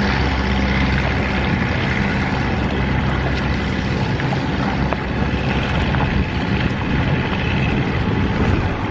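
Motorboat engine running with a steady hum that fades after a couple of seconds, over a constant rush of wind and water noise.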